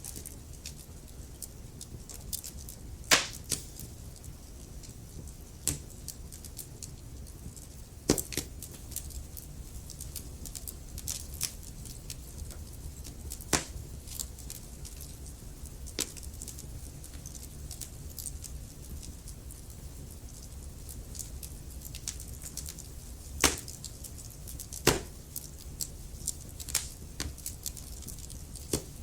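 Wood logs burning in a fireplace, crackling with irregular small pops and a handful of louder snaps over a steady low rumble of the fire.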